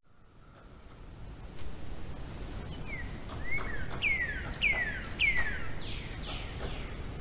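Ambience fading in: a bird singing a run of falling whistled notes, about eight in a row, loudest a little past the middle, with short high chirps from another bird and a low steady rumble underneath.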